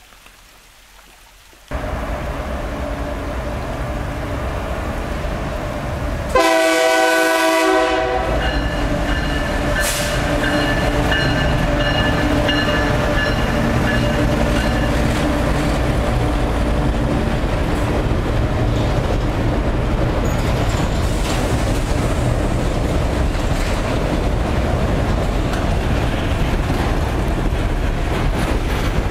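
Diesel freight train passing close by as it leaves a tunnel: the locomotive's engine and wheels start abruptly about two seconds in, its air horn gives one long blast about six seconds in, and the train's wagons then rumble and clatter past steadily.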